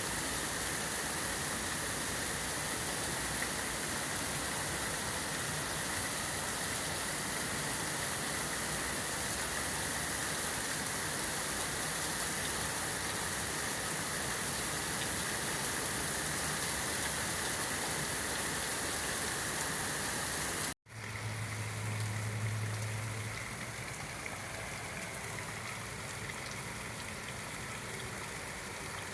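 Heavy rain falling steadily in a dense hiss. About two-thirds of the way through it cuts out for an instant and resumes a little quieter, with a low hum for a couple of seconds just after the break.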